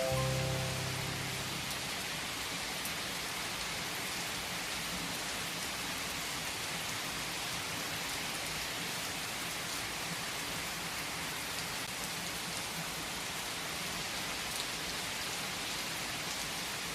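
Steady rain falling, an even hiss that holds level throughout; the last piano chord dies away in the first second or two.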